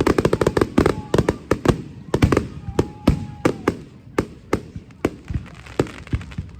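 Fireworks show: rapid bangs and crackling reports, densest in about the first two seconds, then thinning to single bangs spaced out through the rest.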